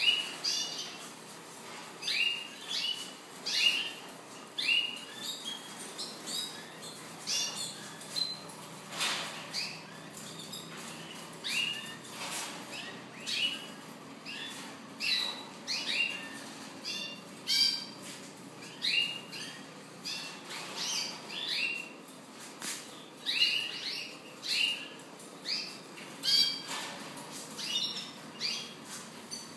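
Pet birds kept in a bird room, calling over and over: short, sharp chirps that drop in pitch, repeating every second or so, with a few longer calls among them.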